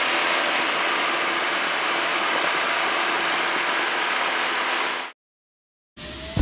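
Steady cabin noise of a light airplane in flight: engine drone and rushing airflow, inside the cockpit. It cuts off abruptly about five seconds in, and music begins near the end.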